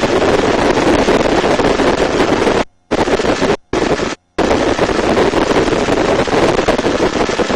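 Helicopter in flight heard from inside the cabin: steady, loud engine and rotor noise with wind. The sound cuts out briefly three times near the middle.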